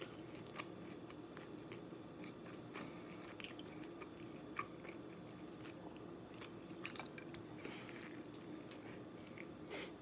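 A person chewing and biting into a flour-tortilla burrito, heard close: short, irregular wet clicks and smacks from the mouth throughout. A steady low hum runs underneath.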